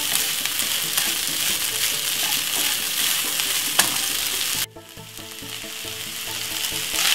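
Fried rice sizzling in a hot non-stick frying pan while it is stirred and scraped with a wooden spatula, with an occasional sharp tick of the spatula. The sizzle cuts off suddenly about four and a half seconds in, leaving a quieter stretch with faint steady tones.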